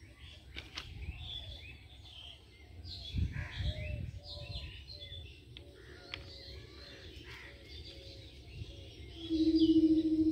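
Small birds chirping and calling over a low rumble. About nine seconds in, a steady humming tone starts and becomes the loudest sound.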